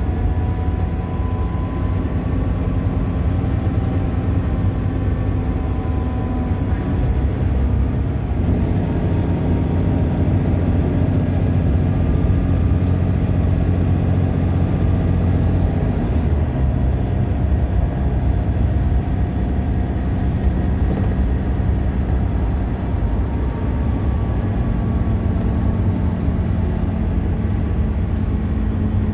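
Bus engine and road noise heard from inside the moving bus: a steady low drone whose engine pitch shifts around 8 and 16 seconds in.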